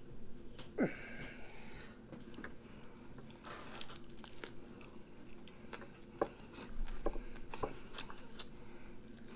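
A person biting into and chewing a bagel burger, with scattered soft clicks and smacks of the mouth and food.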